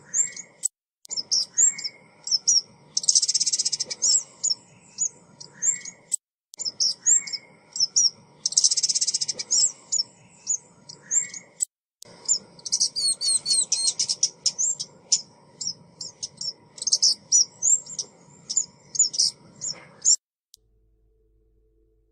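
Lure recording of a female ốc mít bird calling: rapid high chirps and short trills with a couple of dense buzzy stretches, broken by brief silent gaps where the track repeats. It cuts off abruptly near the end.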